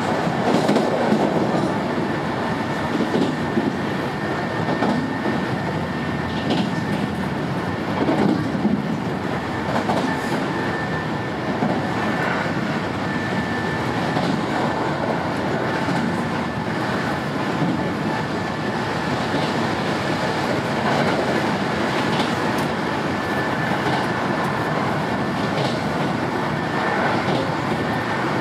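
Running noise heard inside a Sanyo Electric Railway 5000 series electric train car travelling at speed. There is a steady rumble of wheels on rail with a faint high whine, and now and then a click as the wheels pass over rail joints.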